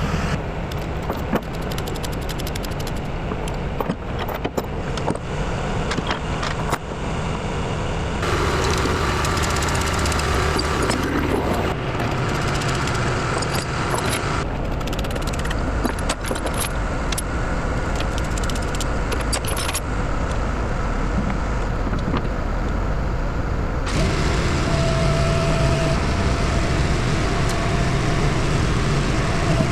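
Komatsu D51 bulldozer's diesel engine idling as it warms up, with scattered metallic clinks and rattles. The sound changes abruptly a few times.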